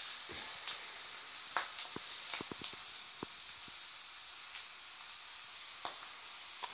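Potatoes frying in oil in a frying pan on a gas stove: a steady sizzle with scattered crackles and pops.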